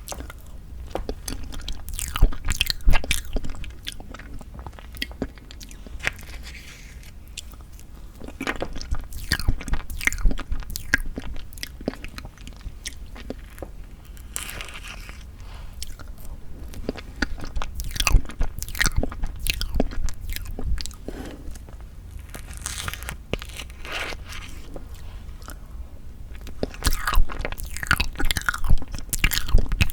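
Close-miked ASMR eating sounds of tofu tiramisu cake: chewing and mouth sounds coming in clusters of sharp clicks every few seconds, with quieter pauses between.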